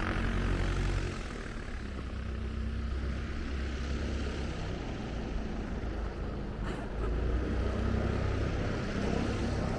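Small propeller aircraft engine running on the ground, a steady low drone that swells in the first second and again in the last few seconds.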